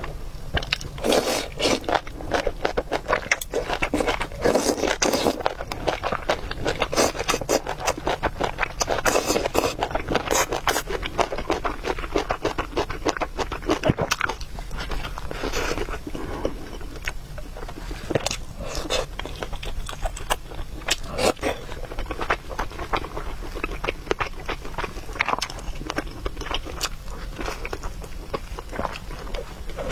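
Close-miked eating of noodles: chewing and slurping, with irregular scrapes and clicks of utensils against the bowl.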